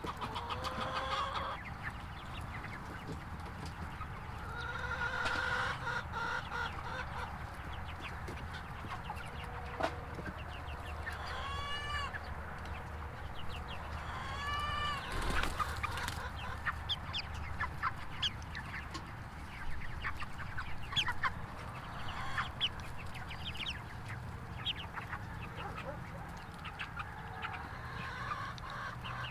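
Chickens clucking, with a few longer calls that rise and fall in pitch about halfway through.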